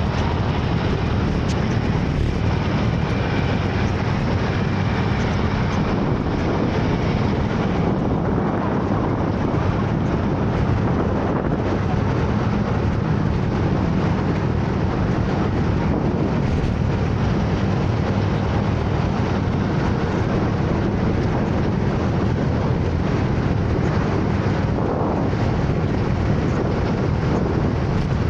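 Steady rush of a motor scooter ride: the scooter's engine running with wind buffeting the microphone, loud and unbroken.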